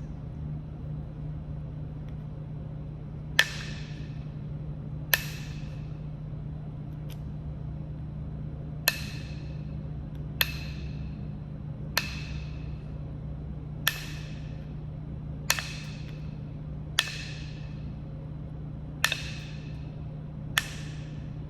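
Flintknapping strikes on Kentucky hornstone: about ten sharp, ringing knocks, one every one and a half to two seconds, as flakes are struck off the stone. A steady low hum lies underneath.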